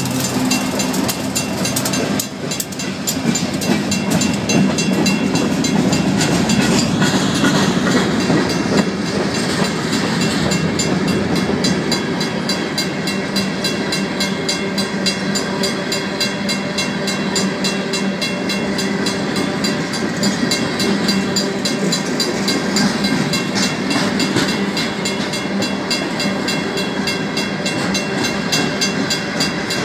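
Empty rock hoppers and gondolas of a freight train rolling past, the wheels clattering over the rails, with the last diesel locomotive's engine fading in the first couple of seconds. Through it the grade crossing's mechanical bell rings with a steady rapid beat.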